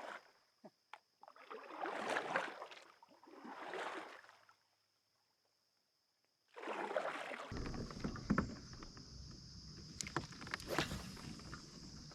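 Kayak paddle strokes swishing through the water, a few seconds apart. After a short pause, a steadier stretch of water and hull noise with a low rumble and scattered knocks and clicks.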